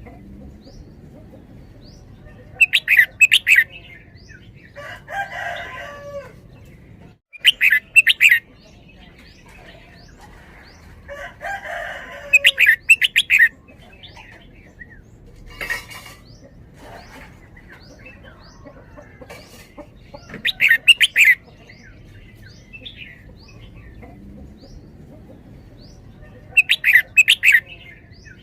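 Red-whiskered bulbul singing loud, short, bright song phrases, about five times with pauses of several seconds between them. A softer, hoarser falling call sounds between some of the phrases.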